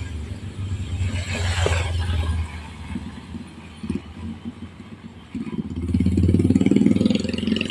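Motor vehicle engines running on the road, with a low rumble that grows louder over the last two or three seconds.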